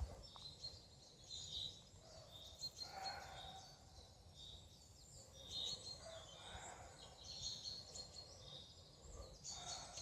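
Faint forest birdsong: short high chirps recur throughout, with a couple of lower calls about three and six seconds in.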